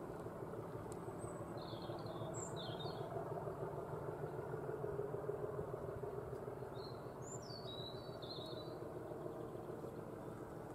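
A small bird chirping in two short bursts over a steady low rumble.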